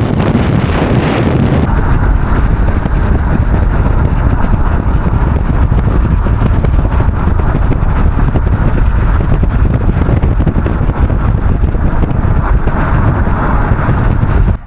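Heavy wind buffeting on the microphone over the road and engine noise of a moving car.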